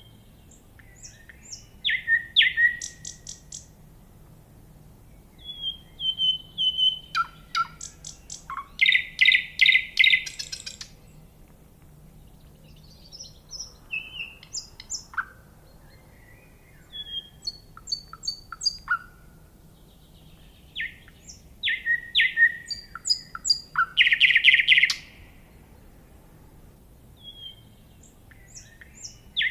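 A songbird singing, repeating short phrases of quick chirps and trills with pauses of a second or more between them.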